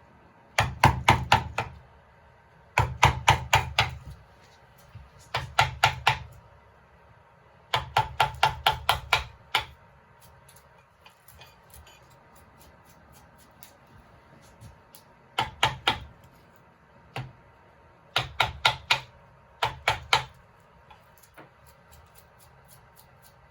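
A mallet striking a carving chisel into wood in quick runs of taps, about five a second, three to eight strikes at a time with short pauses between runs.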